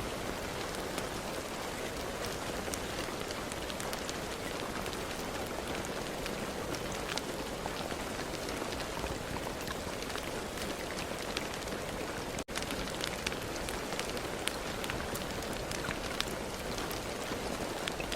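Steady rain falling, with many individual drops ticking sharply throughout. The sound cuts out for an instant about twelve seconds in.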